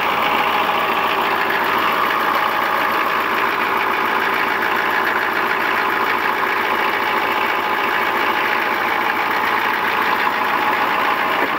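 1995 GMC 6.5L turbo diesel V8 idling steadily with an even, rapid diesel clatter, still warming up after a cold start and running on a replacement pump-mounted driver (PMD).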